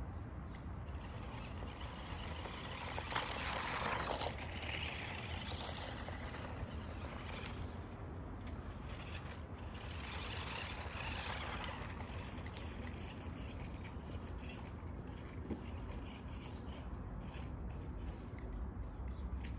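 Radio-controlled buggy running a dirt obstacle course, its motor and tyres growing louder in two spells, about three seconds in and again about ten seconds in, over a steady low rumble.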